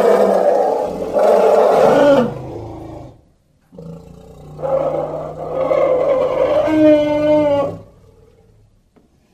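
Elephant calling: two long, harsh roaring calls separated by a short silence about three seconds in. The second call rises in pitch near its end.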